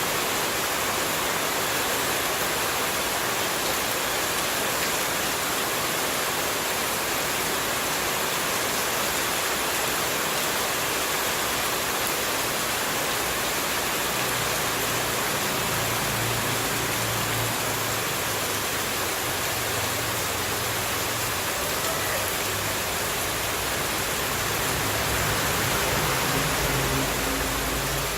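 Steady rushing of running water, an even hiss spread across all pitches with no breaks, used as white noise for sleep. A faint low rumble joins it in the second half.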